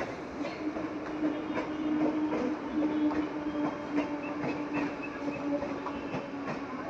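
Mumbai suburban local train, an electric multiple unit, running along the tracks: a steady hum under irregular clicks of the wheels over the rail joints.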